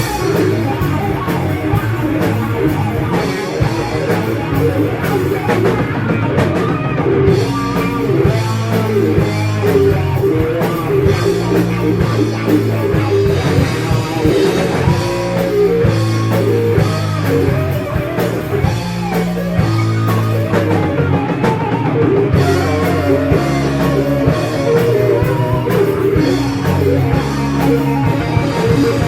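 Heavy metal band playing: electric guitars and bass over a drum kit, loud and steady throughout.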